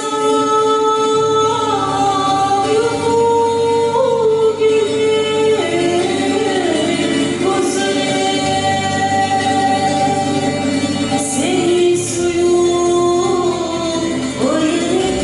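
Folk choir singing a slow song in long held notes that slide from one pitch to the next, over a steady low drone.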